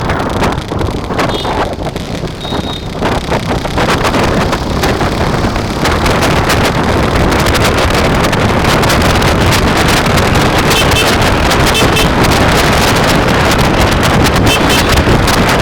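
Wind buffeting the microphone while riding, a loud steady rush that eases a little during the first few seconds and then holds constant.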